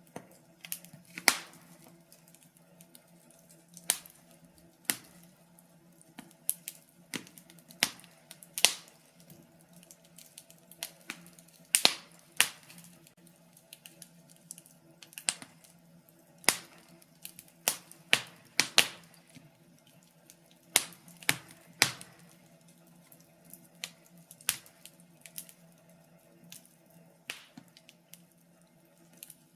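Fireplace fire crackling: irregular sharp pops and snaps, a few loud ones among many small ticks, over a faint steady low hum.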